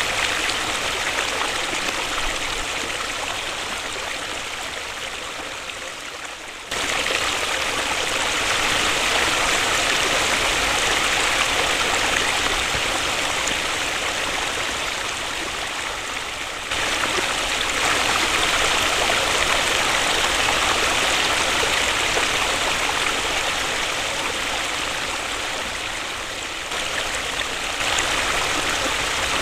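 Waterfall: a steady rush of falling water, a dense even hiss. About every ten seconds the sound slowly dies down, then jumps back up sharply where the recording is cut.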